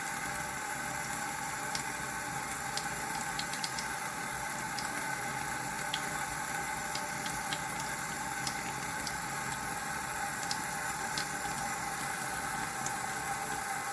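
Steady running water with small scattered clicks and drips throughout.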